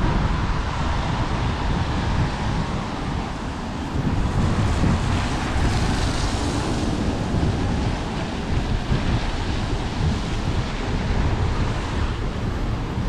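Wind buffeting the microphone, a steady rough rumble, with city traffic noise underneath.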